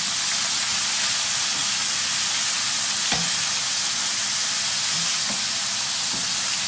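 Oil sizzling steadily as sliced potatoes fry in a wide pan, while prawns are stirred with a wooden spoon in a smaller pan of oil. A sharp knock about three seconds in, and a few softer knocks from the stirring.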